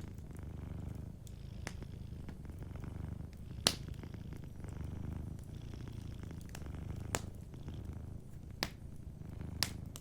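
Domestic cat purring steadily, with sharp pops from a wood fire: the loudest a little over a third of the way in, and three more in the last few seconds.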